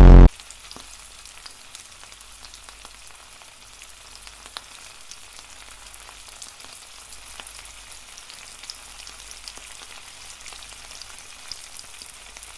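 A steady crackling hiss with faint scattered clicks, opening with a brief, very loud distorted blast.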